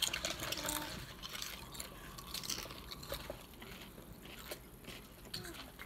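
Crunchy bean crisps being chewed, with irregular crisp crunches.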